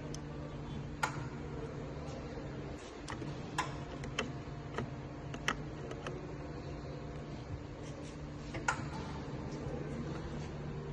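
Electric pallet truck running: a steady low electric hum with scattered sharp clicks and knocks, about eight over ten seconds.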